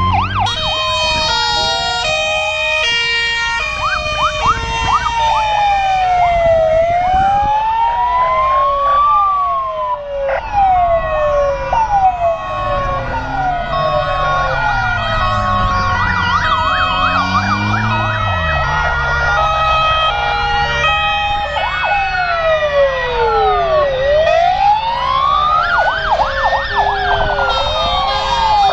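Several fire truck sirens sounding at once, slow rising and falling wails overlapping with a stepped two-tone siren, over the drone of the trucks' engines.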